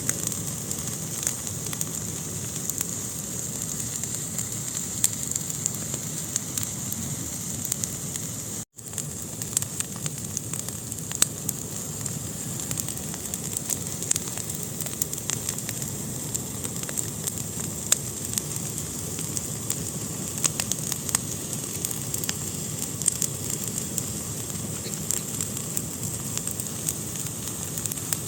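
Fire burning in a fireplace: a steady hiss of flames with frequent sharp crackles and pops. The sound drops out for a split second about nine seconds in.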